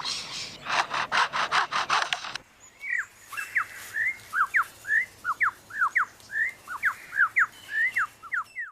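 Superb lyrebird mimicking chainsaws with rapid rasping pulses. About two seconds in, this gives way abruptly to a run of short, clear whistled notes, many sweeping down in pitch, about three a second.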